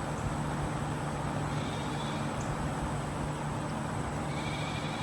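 Steady outdoor background noise with a constant low hum, and faint short high-pitched calls about two seconds in and again near the end.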